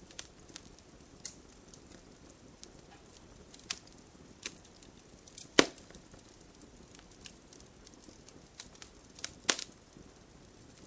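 Wood bonfire crackling, with irregular sharp pops over a soft steady rain hiss. The loudest pop comes about halfway through and another strong one near the end.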